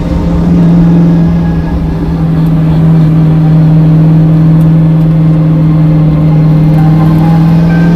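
Supercharged 4.6-litre V8 of a 1968 Ford F100 race truck running at a steady engine speed, a loud, even drone that holds one pitch.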